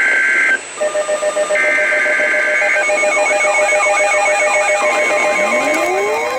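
Emergency Alert System tones from a weather radio broadcast: screeching digital SAME header bursts about a second long, two of them, layered over steady alert tones. After that come warbling siren-like tones and a rising glide, and near the end a long steady tone starts, the NOAA Weather Radio warning alarm tone.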